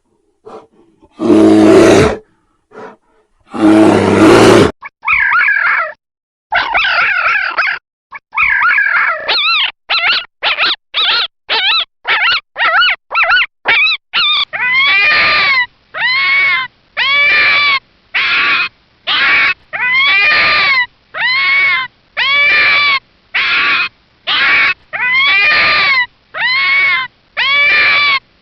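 Animal calls: two long, loud, deep calls in the first few seconds, then a long series of short, high calls, each rising and falling in pitch, repeated about one to two times a second.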